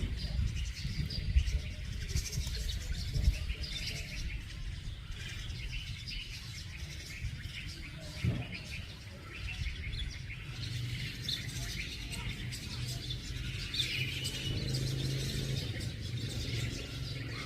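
Birds chirping and twittering in short, scattered calls throughout, over a steady low rumble.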